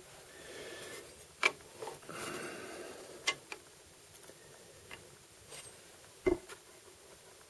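Workshop handling sounds: a few sharp clicks and knocks, the loudest about six seconds in, with two short stretches of scraping or rubbing in the first three seconds, as tools and parts are handled.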